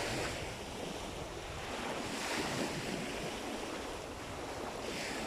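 Sea waves washing in and breaking, swelling about every two and a half seconds, with wind rumbling on the microphone.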